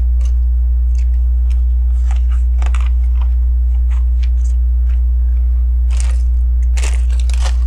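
Plastic LEGO pieces clicking and rattling as they are handled and pressed together, in scattered irregular clicks with a few stronger ones near the end, over a steady low electrical hum.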